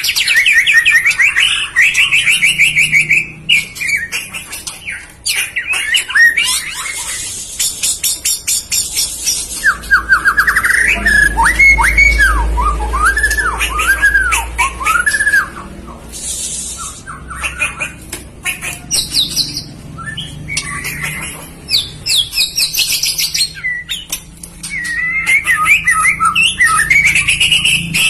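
White-rumped shama (murai batu) singing a long, varied song of rapid trills and chatter, with a run of looping, rising-and-falling whistles in the middle.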